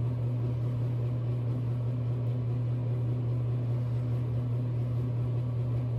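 A steady low hum with no change in pitch or level, and no handling sounds over it.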